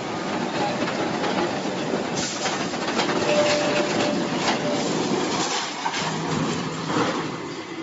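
Heavy machinery: a loud, continuous mechanical rumble with rapid clattering knocks, busiest through the middle.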